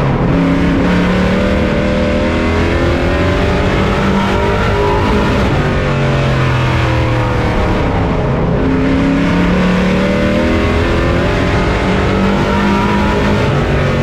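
Race truck engine heard from on board under racing load, its revs climbing and dropping in a repeating cycle about every seven seconds as it goes around the oval.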